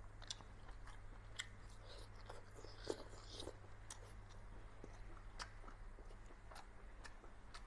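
Faint chewing and biting of a person eating close to the microphone, heard as scattered soft clicks and crunches, over a low steady hum.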